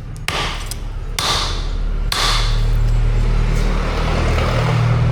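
Hammer striking hot metal three times, about a second apart, each blow with a short ring. Under it a steady low machine hum grows louder after the third blow.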